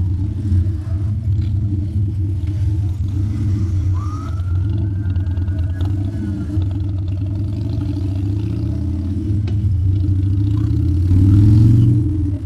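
Harley-Davidson Dyna's V-twin engine running under way, its pitch rising and falling with throttle and gear changes, and revving up loudest near the end.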